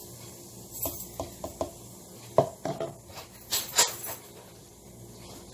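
Light clinks and knocks of containers and utensils being handled while ingredients are added: a few quick taps about a second in, then louder knocks around the middle.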